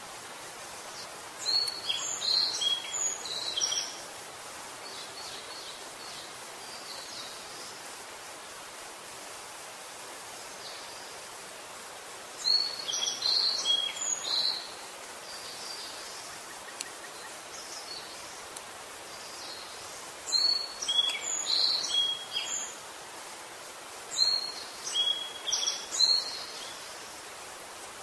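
A songbird singing four phrases of about two seconds each, high-pitched and quick-warbled, over a steady outdoor background hiss.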